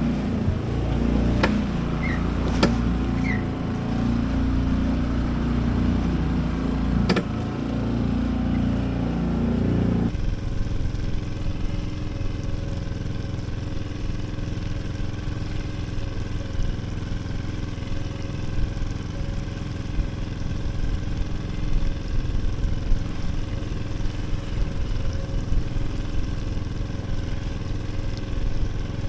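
Sailboat's auxiliary engine running steadily under way, with a few sharp knocks in the first seven seconds; its tone changes abruptly about ten seconds in.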